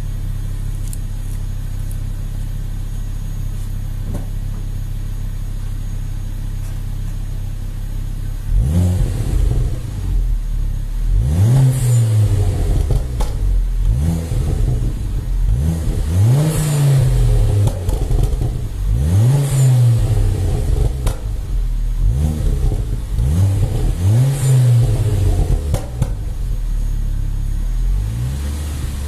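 Turbocharged Ford Focus ST engine through a Mountune cat-back exhaust, idling steadily, then blipped about eight times, each rev rising and falling in pitch. Several revs end in a short hiss from the Bailey DV26 dump valve venting.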